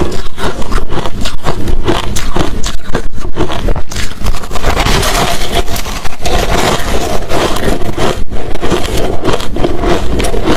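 Hard crushed ice and chunks of shaved ice being chewed close to the microphone: rapid, repeated crunches, several a second, with a denser grinding crunch midway.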